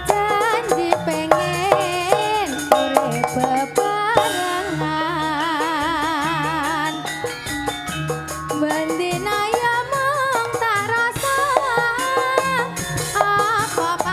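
Jaranan Senterewe music played live: a Javanese percussion ensemble with fast, dense drumming under a wavering lead melody with vibrato.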